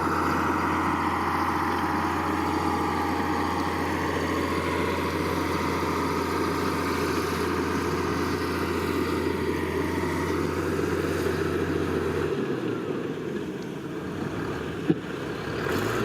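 Diesel engine of a heavy earthmoving machine running steadily. A low steady hum drops away about twelve seconds in, and a single sharp click comes near the end.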